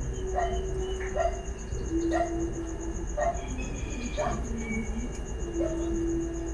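Outdoor ambience: a cricket's steady, high, pulsing trill, with short falling calls repeating about once a second over a low steady hum. No engine is running.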